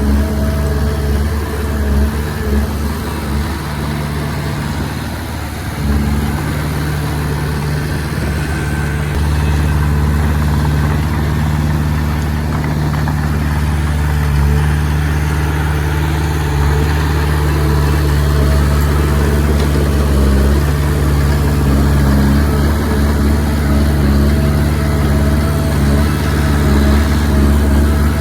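Komatsu D20P bulldozer's diesel engine running steadily as it works. It drops back slightly about four seconds in and picks up again around six seconds.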